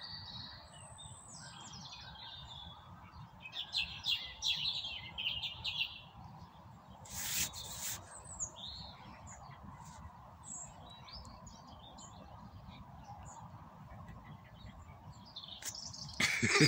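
Songbirds singing in the trees: scattered short high chirps, with a fast run of repeated notes about four seconds in. A brief rush of noise about seven seconds in, over a steady low rumble of wind.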